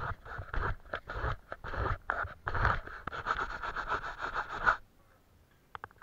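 Paintbrush scrubbing on paper in rapid scratchy strokes, several a second, stopping suddenly about five seconds in; a few faint taps follow.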